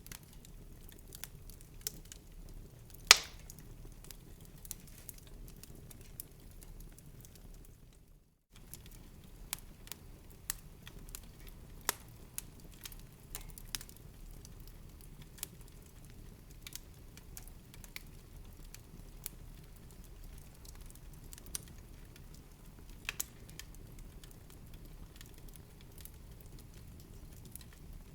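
Wood fire crackling in a fireplace: scattered small pops and snaps over a low steady rumble, with one loud pop about three seconds in. The sound cuts out for a moment about eight seconds in.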